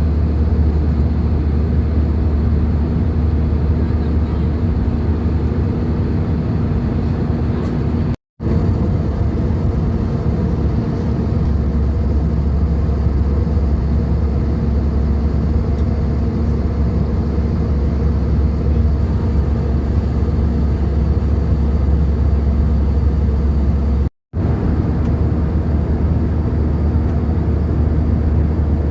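Steady loud cabin noise of an airliner in flight: an even rumble with a constant low hum. It cuts to silence for an instant twice.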